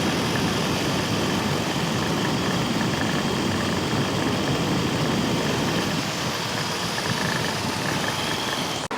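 An engine running steadily, cutting off abruptly near the end.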